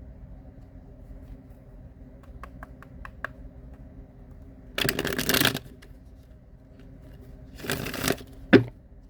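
Tarot cards being shuffled: a few light ticks of cards, then two short riffling bursts, one about halfway through and one near the end, followed by a sharp slap of the cards.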